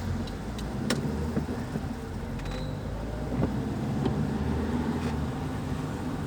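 Car engine running as it drives slowly through town traffic, a steady low hum heard from inside the cabin, with a few sharp clicks.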